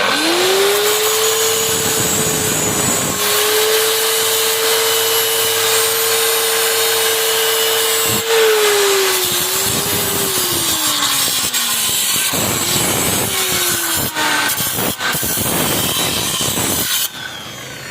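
Angle grinder spinning up and grinding the edge of a steel plate into a round shape. Its steady whine dips about eight seconds in and slides lower twice more as it is pressed into the metal, and it stops shortly before the end.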